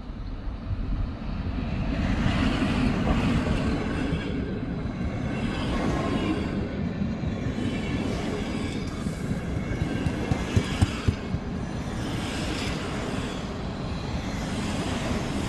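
Electric-hauled passenger train passing close along the platform: the coaches' wheels make a steady rolling rumble, with a few sharp clacks over the rail joints about ten to eleven seconds in.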